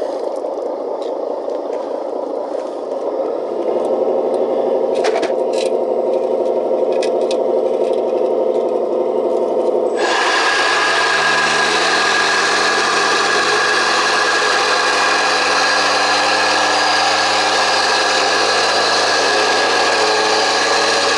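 Scale RC hydraulic vibrating roller running: a steady electric-motor whir from the hydraulic drive that grows louder a few seconds in, then switches abruptly to a louder, harsher buzz about ten seconds in.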